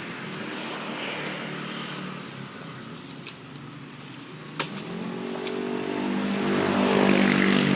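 A motor vehicle's engine running steadily, growing louder from about five seconds in as it comes closer or speeds up. A sharp click a little after the middle.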